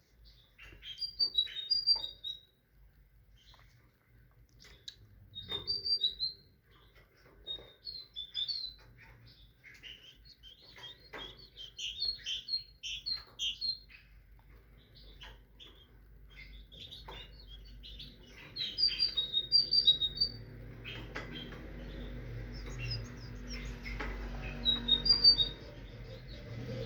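A tit singing: short phrases of two or three high, clear notes repeated in bursts every few seconds, with scattered sharper calls between. A low steady hum comes in about two-thirds of the way through.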